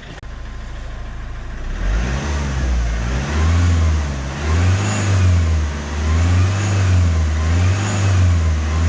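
Iveco Daily diesel engine idling, then revved up and down repeatedly from about two seconds in, each rise and fall lasting about a second and a half. The engine is being run with a newly fitted camshaft sensor to check whether the white exhaust smoke has cleared.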